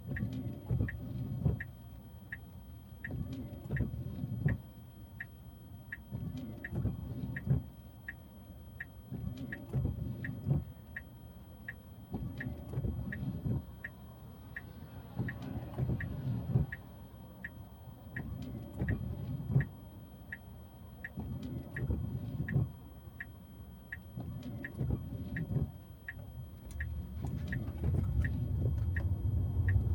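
Cabin noise of a Tesla driving in the rain: a low road rumble that swells and fades every second or two, with a steady, even ticking about once every 0.7 seconds.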